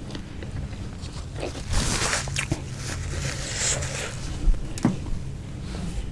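Close-miked eating sounds: chewing and handling food, with a few sharp clicks and brief rustles.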